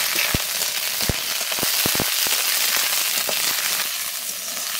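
Garlic-ginger paste sizzling in hot mustard oil with frying onion slices in a steel wok: a loud, steady hiss with several sharp pops of spitting oil in the first half.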